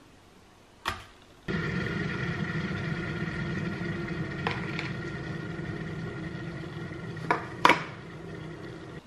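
A steady machine hum starts abruptly after a single click and holds steady. Louder clicks come near the end, then the hum drops lower and stops.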